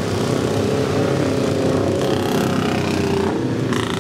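Vintage racing motorcycle engines running at low speed, a steady, rough engine sound, with a brief sharper burst near the end.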